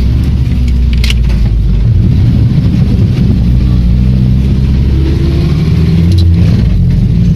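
Old GAZ off-road jeep's engine running under load while driving, its pitch rising and falling, with a sharp knock about a second in and a few lighter knocks later.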